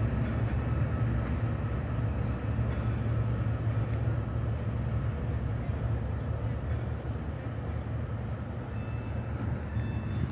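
Locomotive-hauled container freight train passing along a far line, a steady low rumble of engine and wagons on the rails. A faint high whine joins near the end.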